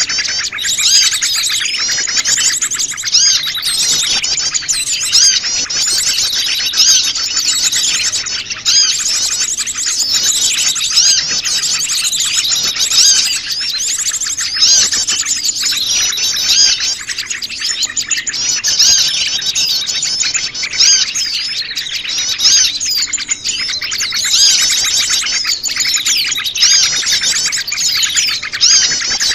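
A dense, noisy chorus of many small wild birds chirping and trilling at once, overlapping calls without a break: a mixed small-bird lure recording.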